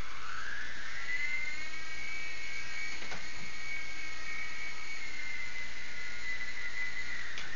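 Toy helicopter's small electric motor and rotor spinning up into a steady high whine, with a short tick about three seconds in and sharp knocks at the very end.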